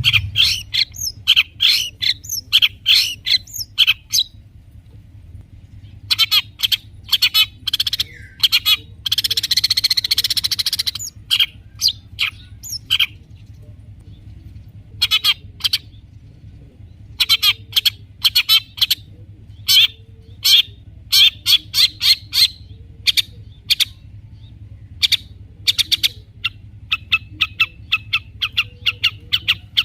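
Long-tailed shrike (cendet) singing in quick bursts of sharp, high chattering notes broken by short pauses. A harsh, rasping phrase comes about a third of the way through, and a fast, even trill comes near the end.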